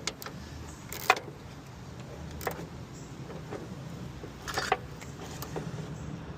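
Scattered clicks and knocks from the crash-damaged hood of a 2007 Honda Accord being worked by hand as it refuses to open, the sharpest about a second in and a short cluster a little past the middle, over a steady low hum.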